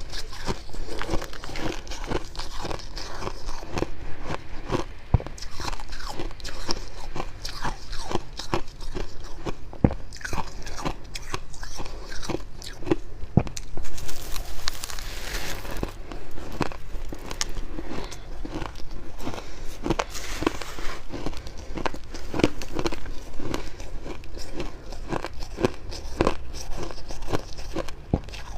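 Close-up crunching of fluffy freezer frost being bitten and chewed: dry crunches, many per second and irregular. A brief hissing noise comes about halfway through.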